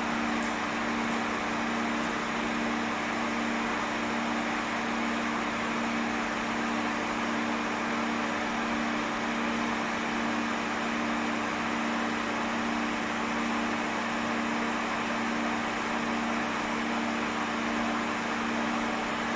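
Pet hair dryer running steadily while drying a cat's fur: an even rush of air over a constant low motor hum.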